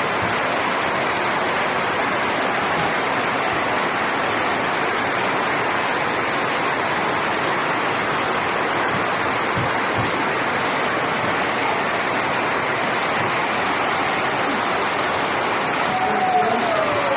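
Heavy rain pouring steadily, a dense unbroken hiss.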